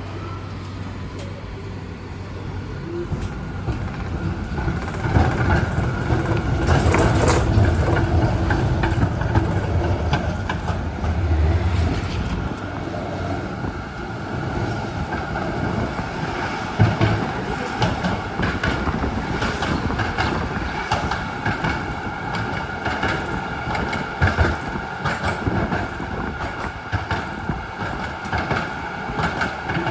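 Z3 class tram running along the rails, heard from on board: a low rumble with a steady motor tone and many sharp clicks as the wheels pass over the track. It starts as a quieter hum and grows louder over the first several seconds, then keeps running steadily.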